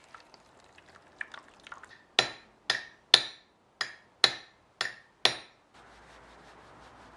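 Small hammer striking the steel blade of a Japanese plane (kanna): seven sharp, ringing taps about two a second, with a few light clicks before them. Near the end comes a steady rubbing noise.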